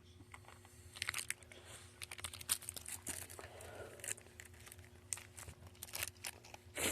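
Plastic wrapper of a Warheads sour candy crinkling and tearing as it is unwrapped: a dense run of sharp crackles starting about a second in.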